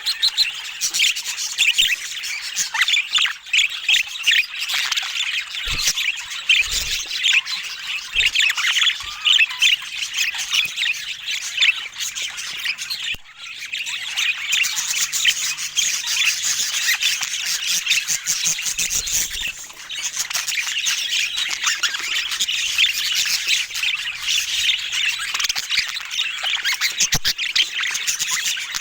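Budgerigars chattering and warbling with rapid squawks and chirps, nearly continuous with a short pause about halfway through.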